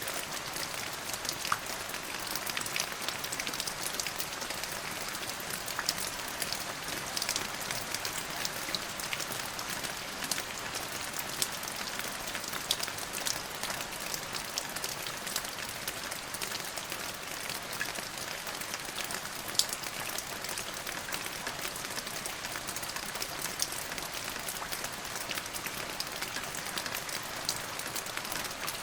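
Steady rain falling, a constant hiss with many sharp drop ticks and one louder drop about two-thirds of the way through.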